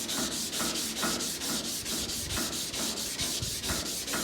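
Sandpaper being run over the steel sheet metal of a car door, a rapid, even rasping rhythm of about eight strokes a second. This is the door edge being sanded to bare, clean metal to take off the rust before the dent is repaired.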